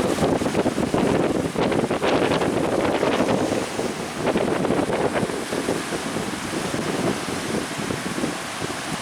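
Strong wind buffeting the microphone over waves splashing against a small fishing speedboat at sea, a little louder in the first half.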